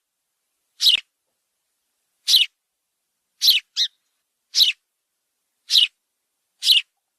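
House sparrow chirping: six short, sharp, high chirps about a second apart, with a quick double chirp near the middle.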